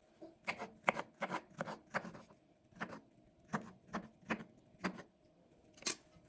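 A knife chopping on a cutting board: about a dozen light, irregular knocks, roughly two a second, with a short pause near the end before a last, sharper knock.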